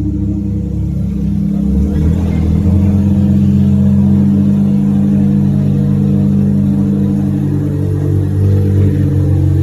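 Mazda RX-7 FD's 13B twin-rotor rotary engine running at low revs as the car creeps along, its note changing slightly about two seconds in.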